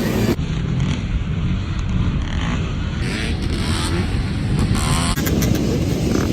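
Dirt bike engines running and revving hard. The sound changes abruptly three times as short clips are cut together.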